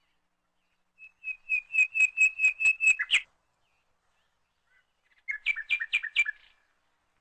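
A songbird singing. About a second in comes a fast series of about ten repeated notes at one pitch, ending in a quick downward flourish. A second, shorter phrase of lower notes follows after a pause of about two seconds.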